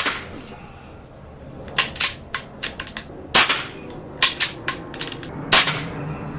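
Three shots from a suppressed .22 PCP air pistol (a converted Crosman Marauder Pistol fitted with a Hill suppressor): sharp cracks at the start, about three and a half seconds in and near the end, with clusters of lighter clicks between the shots.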